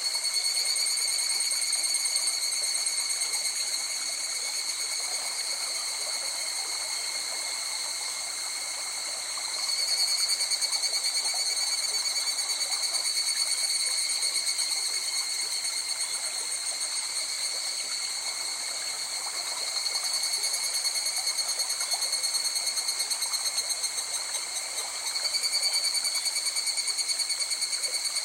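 River water rushing steadily, with an animal's continuous high, finely pulsed trill over it that swells louder in bouts: about two seconds in, around ten seconds in, around twenty seconds in and again near the end.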